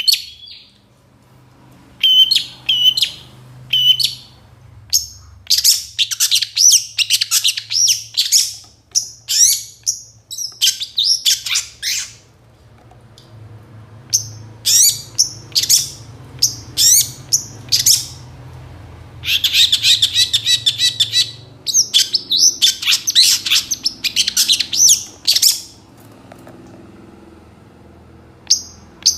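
Long-tailed shrike (pentet) singing a song full of mimicked phrases: bursts of rapid, high twittering and chirps between short pauses, with a harsh buzzy rattle about two-thirds of the way through. A faint low hum lies underneath.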